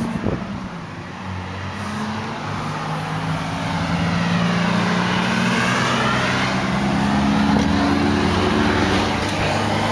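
Road traffic: a vehicle passing close by on the highway, its engine and tyre noise building over the first few seconds and staying loud, over a steady low engine hum.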